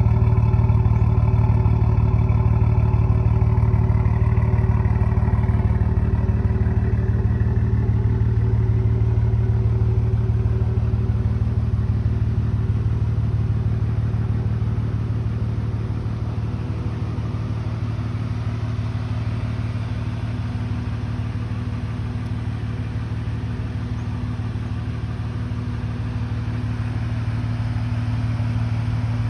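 Straight-piped exhaust of a BMW G12 740i's turbocharged B58 straight-six, with no catalytic converters, mufflers or resonators, running at a steady idle. It is a little louder and brighter for the first few seconds, then settles.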